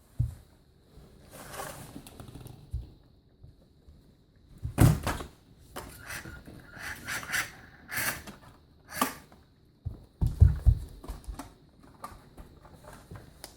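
Irregular knocks and rattles from a toy remote-control monster truck and plastic play balls, with a louder thump about five seconds in and a cluster of thumps about ten seconds in.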